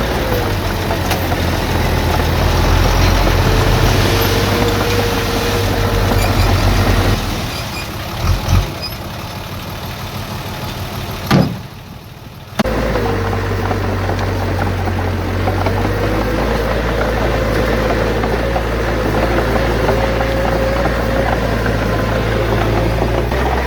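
Heavy diesel engine of earthmoving machinery running steadily. Midway it drops to a quieter stretch, broken by two short thumps and one sharp knock, then comes back at full level all at once.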